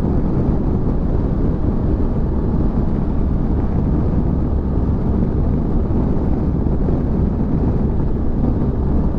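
Motorcycle riding at steady speed: a constant rumble of wind rush on the microphone mixed with engine and road noise, with no change in pace.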